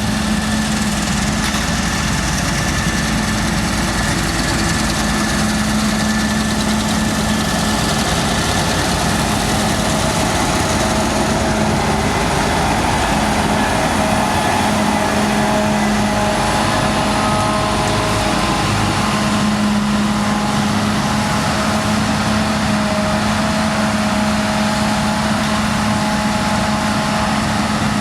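Claas Lexion 7600 combine harvester running steadily while cutting beans: a continuous engine drone with a steady hum over the noise of the working machinery.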